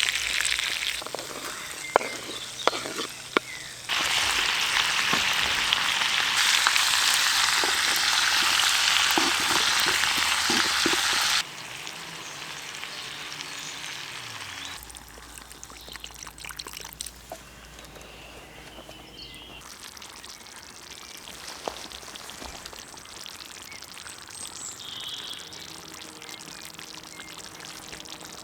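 Chicken thighs sizzling in a pan over a campfire, with a few clicks and knocks of a utensil against the pan. The sizzle jumps in loudness at several cuts, loudest in the middle and dropping to a quieter hiss for the second half.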